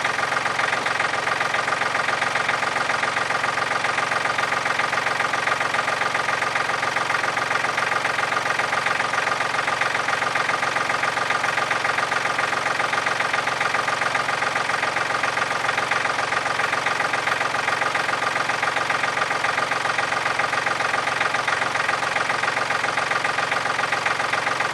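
John Deere 790 compact tractor's three-cylinder diesel engine running steadily.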